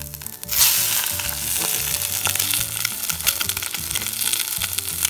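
Egg-in-a-nest (bread with an egg in its centre) flipped onto a hot buttered stainless-steel pan: a sudden loud sizzle about half a second in as it lands, then steady sizzling with small pops.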